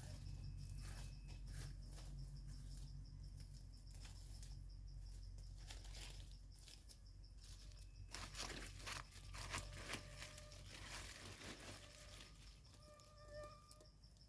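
Faint rustling and crackling of leaf litter and soil as termite mushrooms are picked, busiest about two-thirds of the way in. A thin, steady high insect tone runs underneath.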